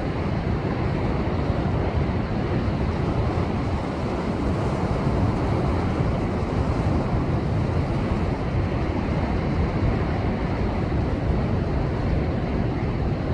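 Heavy post-typhoon surf breaking and surging against a rocky shore: a steady, loud rush of water with its weight in the low end.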